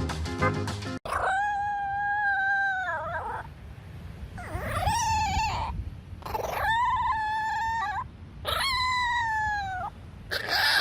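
A cat yowling in four long, drawn-out calls, each held steady and then dropping in pitch at the end. A short burst of music comes before the first call.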